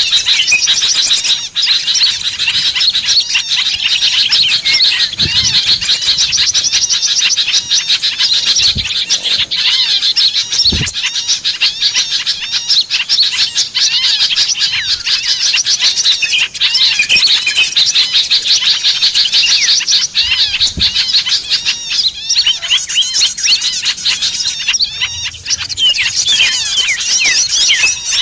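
Many small birds chirping and twittering rapidly in a dense, unbroken chorus. A few faint low thuds sound under it.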